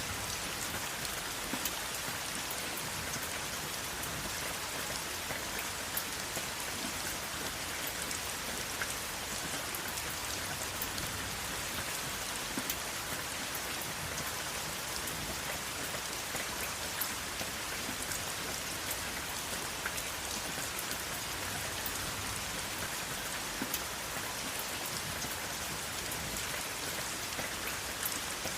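Steady rain falling, a continuous hiss with many individual drops pattering on a surface, and no thunder.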